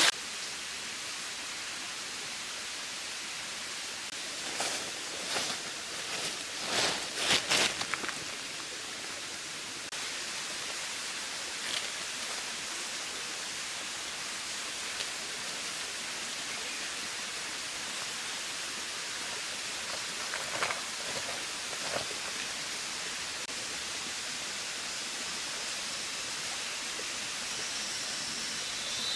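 Mountain stream running steadily. A cluster of short knocks or crackles about five to eight seconds in, and two or three more around twenty seconds in.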